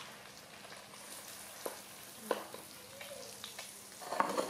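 Food frying in hot oil: a steady sizzle with a few sharp pops, and a louder burst of noise near the end.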